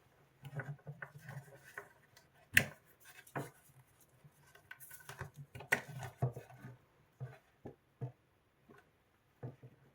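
Irregular clicks, knocks and light rattling of parts and tools being handled during hands-on work, with two sharper knocks, about two and a half seconds in and near the middle.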